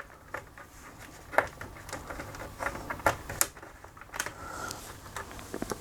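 Scattered light clicks and knocks of a laminator's plastic housing and mains cable grip being handled and seated into place.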